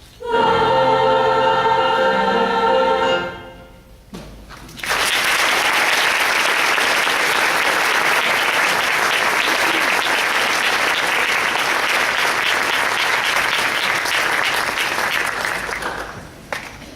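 Women's choir holding a final chord for about three seconds, which dies away; then the audience applauds steadily for about eleven seconds, tapering off near the end.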